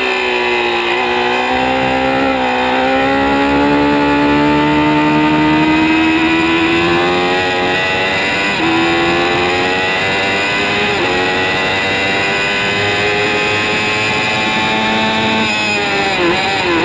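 2006 Kawasaki ZX-6R 636 inline-four engine running hard at high revs: the pitch drops at the start, then climbs slowly and steadily for most of the stretch, with a quick dip and rise near the end.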